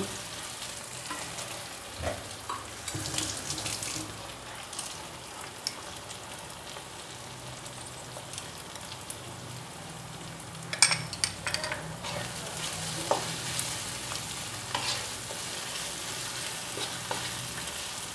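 Chopped onion, garlic, chilli, tomato and cashews frying in oil in a non-stick wok, sizzling steadily as a wooden spatula stirs and scrapes through them. A brief cluster of sharp clicks comes about two-thirds of the way in.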